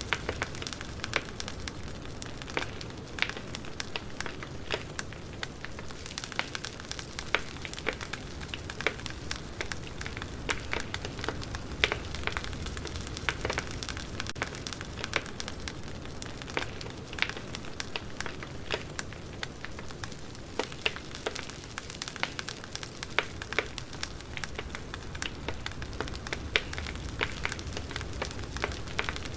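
Campfire burning with a steady low hiss of flames and frequent sharp, irregular crackles and pops.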